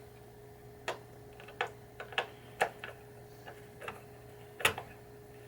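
Sharp, irregular clicks, about six, from hand work on a 1986 Gottlieb Hollywood Heat pinball drop target assembly mounted on the playfield, with a faint steady hum behind them.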